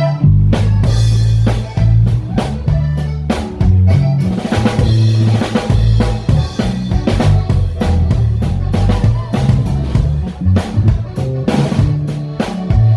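Drum kit playing a steady beat, with bass drum, snare and rimshots, over the bass line of a norteño song.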